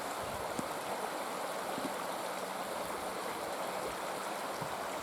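Steady rushing of flowing water, an even hiss with no rise or fall.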